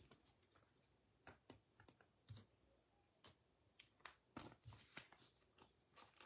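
Faint, scattered taps and light clicks of trading cards being handled and set down on a table.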